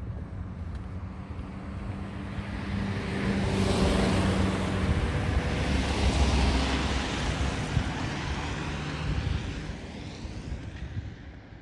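A car drives past on the street, its tyre and engine noise swelling, peaking midway, then fading away near the end.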